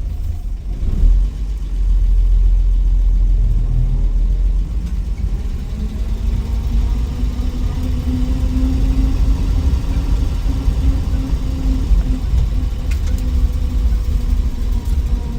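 Willys Wagon's 230 Tornado overhead-cam straight-six running under a heavy low rumble. Its pitch rises about two to three seconds in, then holds a steady drone.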